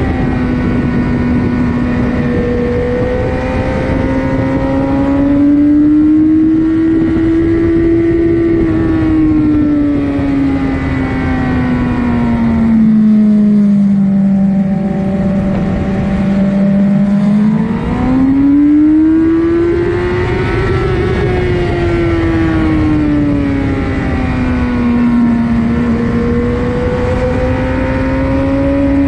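2007 Suzuki GSX-R750's inline-four engine running hard, heard on board at track speed. Its note rises and falls again and again as the throttle is opened and closed, sinking lowest around the middle. It breaks off briefly just before it climbs sharply again.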